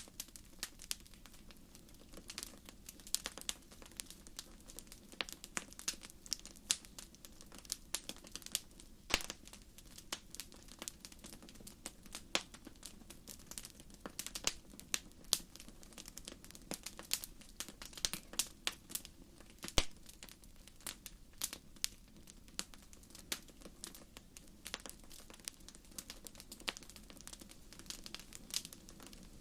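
Wood fire crackling in a fireplace: irregular sharp pops and snaps, several a second, over a faint steady low background.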